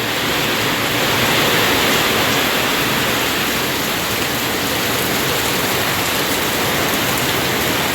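Heavy rain falling, a dense even hiss that holds steady throughout.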